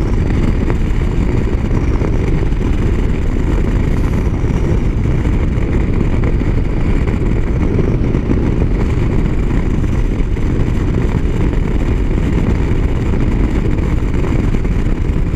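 Steady wind and engine noise of a motorcycle riding along a highway, heavy and low, with no change through the stretch.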